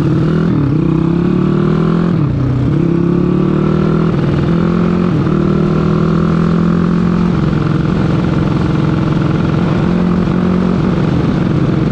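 Motorcycle engine accelerating hard through the gears in a drag run, its pitch climbing and then dropping sharply at each shift, a few times in the first half, then holding steadier.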